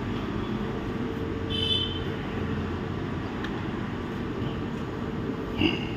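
Steady low background hum of running machinery, such as an air conditioner or fan. It is broken by a short high-pitched chirp about a second and a half in and another brief high sound near the end.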